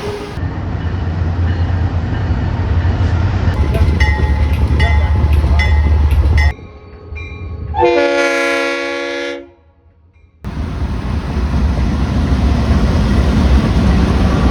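A passing freight train rumbling, with a run of evenly spaced clicks of wheels over rail joints, about two a second. After an abrupt cut, a locomotive's multi-chime air horn sounds for about a second and a half, and after a brief gap the train's rumble resumes.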